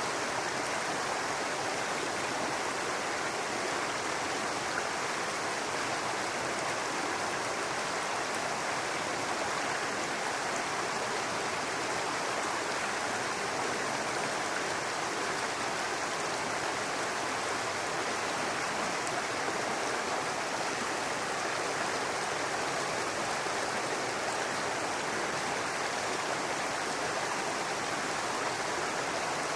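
Small brook running steadily over rocks, a continuous babbling rush of water.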